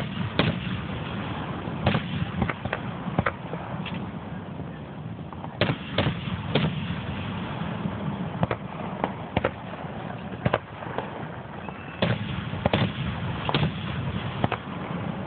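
Aerial fireworks shells bursting in the sky: a string of sharp bangs at irregular intervals, some in quick clusters, over a steady low background noise.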